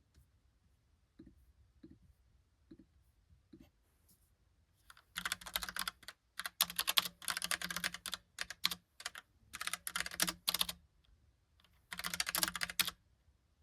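Logitech Pop Keys mechanical keyboard, with round typewriter-style keycaps, being typed on. A few soft isolated clicks come first, then fast runs of keystrokes in bursts a second or two long, with a short pause before a last burst near the end.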